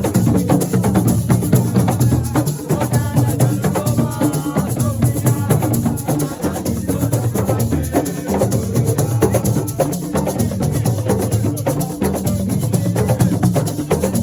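Live assiko-style percussion music: drums with a fast, dense shaker-rattle rhythm over a strong bass. A voice is heard over it from about three to six seconds in.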